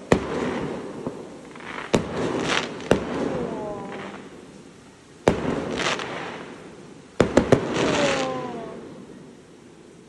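Aerial firework shells bursting, about seven sharp bangs, each trailing off in a rolling echo and crackle, with a quick run of three bangs about seven seconds in.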